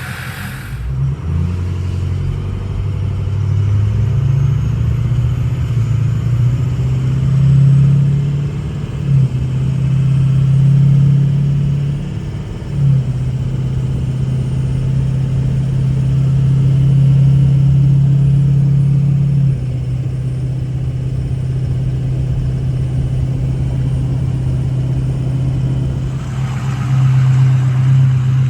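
2004 Ford F-250's 6.0 Power Stroke V8 turbo diesel, with a 5-inch straight-pipe exhaust, idling well below freezing, shortly after a cold start with no block heater. It runs with a deep, uneven note that swells and drops a few times and has not yet smoothed out.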